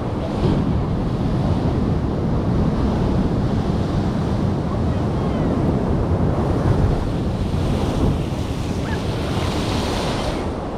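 Wind buffeting the microphone over steady ocean surf, the hiss swelling briefly near the end.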